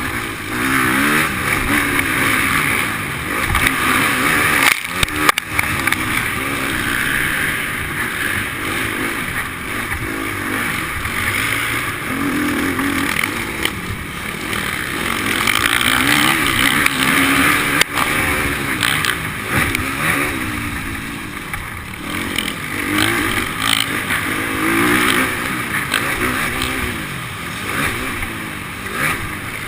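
Motocross bike engines revving up and down over and over, the pitch rising and falling every second or two as the bikes accelerate and ease off around the track. There are a couple of sharp knocks, about five and eighteen seconds in.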